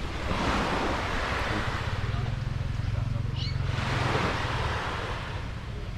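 Wind on the microphone and sea water washing around a small kayak, a steady rushing that swells and eases twice, with a low steady hum through the middle.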